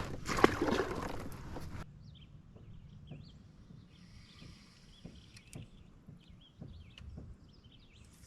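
A loud rushing noise with a sharp click about half a second in, stopping suddenly at about two seconds. Then quiet, with small birds chirping.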